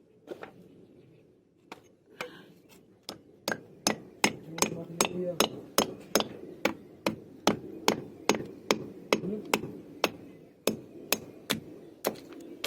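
Hammer blows on wood: a few scattered strikes, then a steady run of about two to three blows a second.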